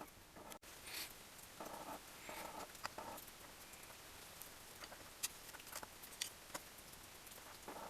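Faint handling sounds of small metal parts and tools: a few short rubbing or scraping strokes, then scattered light clicks and taps.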